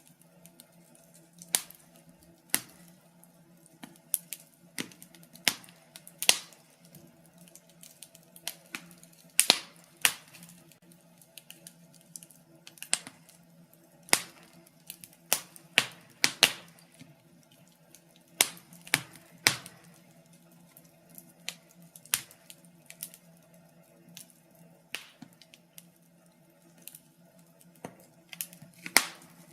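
Wood fire crackling in a fireplace: irregular sharp pops and snaps of varied loudness, sometimes in quick clusters, over a faint steady low hum.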